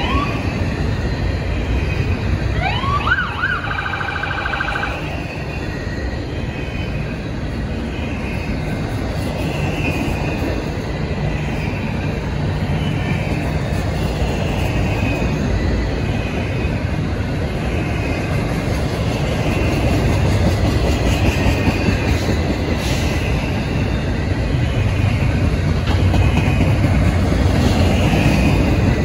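Double-stack intermodal well cars of a freight train rolling past close by: a steady rumble of wheels on rail. About three seconds in, a short tone rises, holds for about two seconds and stops.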